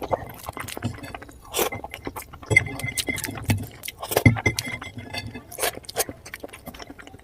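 Close-up eating sounds from someone eating oily mutton curry: many quick wet smacks and chewing clicks, with a few short slurps.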